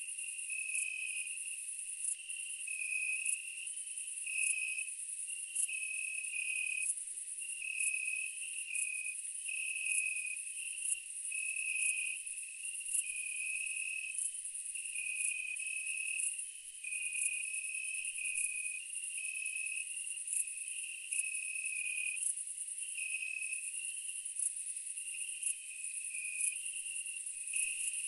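Night insects chirping, crickets or similar: a steady high-pitched trill with a regular pulse, over a lower chirp that repeats throughout. No eruption booms are heard.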